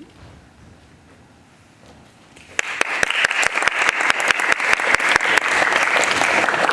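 Audience applauding: after a quiet couple of seconds, clapping starts suddenly about two and a half seconds in and stays loud and dense, with single sharp claps standing out.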